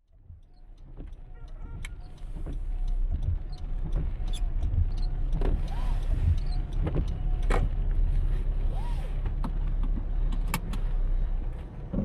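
A car driving on wet city roads, heard from inside: a steady low road and engine rumble with scattered clicks and ticks and a few brief squeaks. It fades in over the first few seconds.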